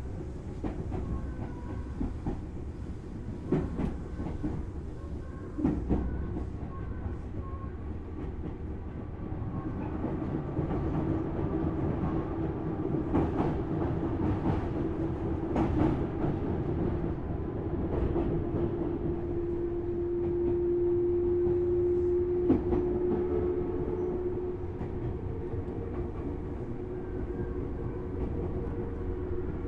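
Tobu Railway Series 6050 resistor-control electric train running between stations, heard from inside a motor car: steady rumble of wheels on track with a steady motor and gear whine that swells louder in the middle and later part, and several sharp rail-joint clacks.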